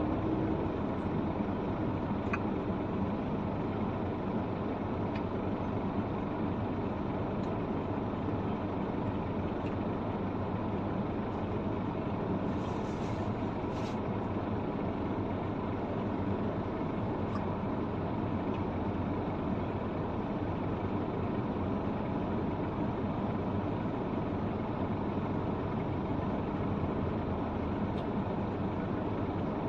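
Truck engine running steadily with road noise while driving, broken by a brief hiss about halfway through.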